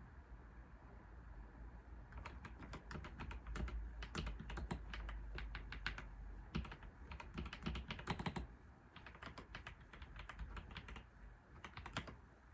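Typing on a computer keyboard: quick runs of key clicks that start about two seconds in, break off briefly past the middle, resume, and end with a short cluster of keystrokes near the end.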